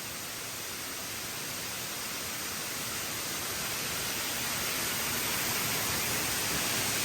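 Waterfall's falling water, a steady rushing hiss that grows gradually louder.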